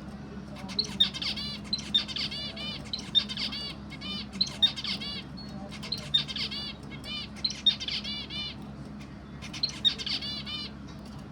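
A small bird chirping in short phrases of rapid, repeated high notes, about one phrase a second, with a brief pause before a last phrase near the end. A steady low hum runs underneath.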